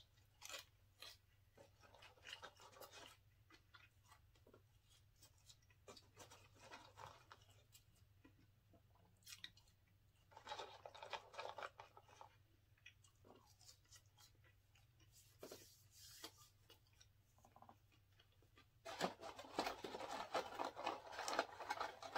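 Quiet chewing of French fries, with sparse faint mouth clicks and crunches. Twice, about ten seconds in and again near the end, louder scraping and rustling of a cardboard takeout box being handled.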